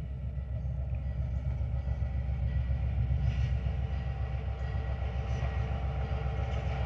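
Diesel locomotive hauling passenger cars, approaching from a distance. Its engine makes a steady low rumble that grows slightly louder as it comes closer.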